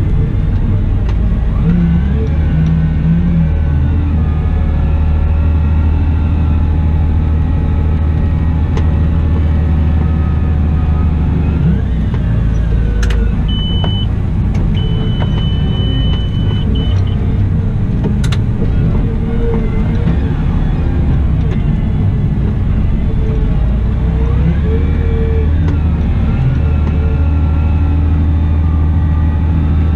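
Caterpillar 972M XE wheel loader running at work, a steady loud engine hum with a whine that rises and falls as the machine works. A high steady beep sounds briefly in the middle, once short and once longer.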